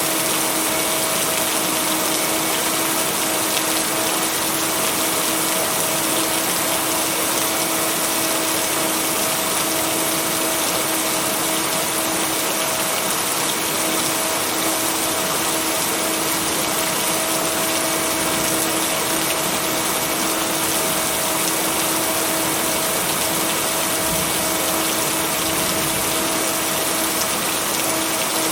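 Steady heavy rain, an even wash of noise with no thunder, mixed with a steady low hum of two tones from the binaural-beat track.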